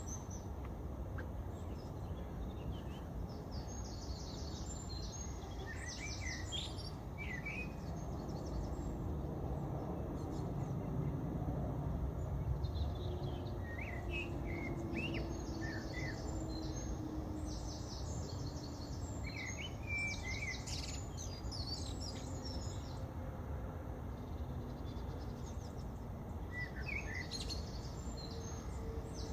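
Small birds chirping and twittering in short phrases every few seconds over a steady low rumble of city traffic.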